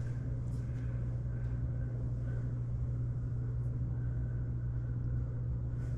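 Steady low hum, unchanging throughout, with faint short high notes now and then.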